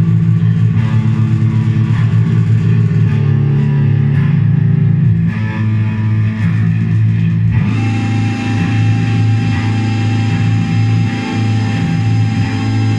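Noise music from a handmade synthesizer: loud, distorted low drones with a grinding texture. A little over halfway through the sound turns brighter and a steady higher tone enters.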